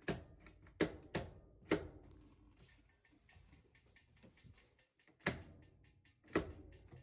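Scattered sharp clicks and knocks, about six in all, with a quiet gap in the middle, from parts of a washing machine being handled as its motor is reconnected.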